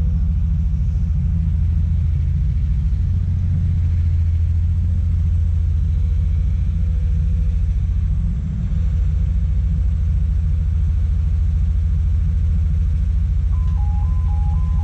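Komatsu PC200 excavator's diesel engine running steadily under load, a deep even rumble with a brief dip partway through. About a second before the end, a two-tone warning alarm starts beeping, alternating between two notes.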